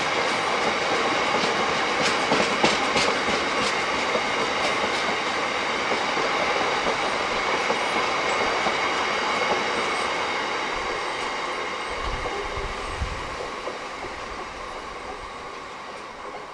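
Freight train's open box wagons rolling past on the track, wheels clattering over the rail joints with steady high-pitched ringing tones. The sound fades over the last few seconds as the tail of the train passes and draws away.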